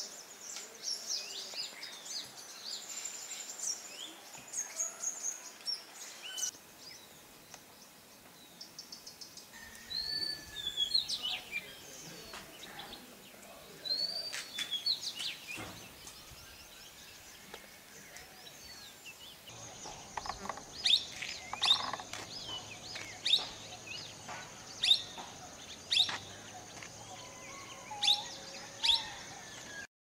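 Wild birds chirping and calling, many short high calls. In the second half the calls get louder and sharper, coming about once a second over a steady high-pitched whine.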